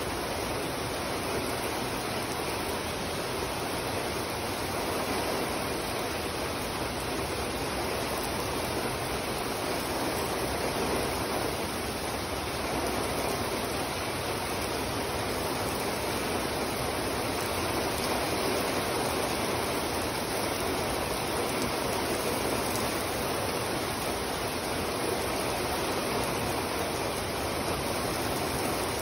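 Heavy rain pouring down onto wet pavement, a steady, dense hiss without a break.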